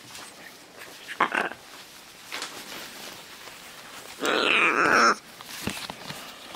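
Scarlet macaw calling: a short harsh squawk about a second in, then a loud, harsh squawk lasting about a second past the middle.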